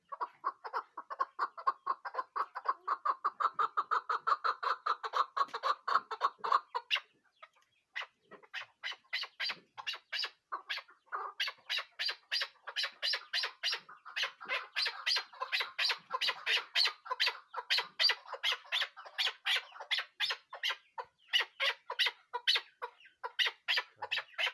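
Chukar partridge calling: a fast run of clucking notes, about five a second, for some seven seconds, a brief pause, then a longer run of sharper, higher notes.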